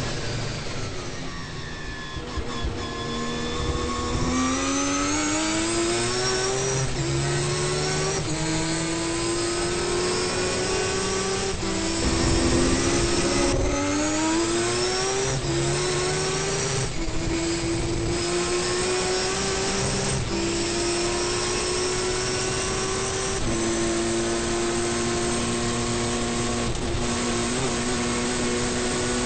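Turbocharged three-rotor 20B rotary engine of an RX-7 race car heard from inside the car, running hard at racing speed. Its note falls for the first few seconds, then climbs through the gears, dropping sharply at each upshift about eight times, with another fall and climb about halfway through.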